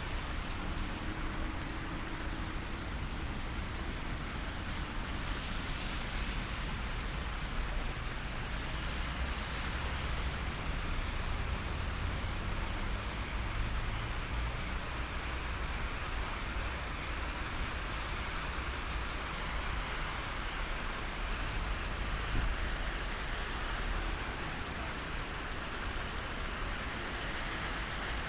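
Steady rain falling on a city street, with a low rumble of traffic underneath and a brief swell of hiss about five seconds in.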